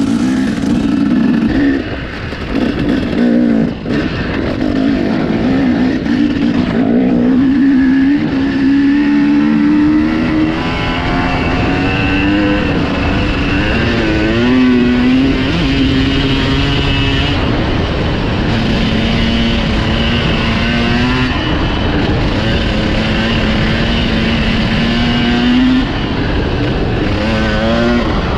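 Dirt bike engine running under load while being ridden. Its pitch climbs and drops back again and again through the ride.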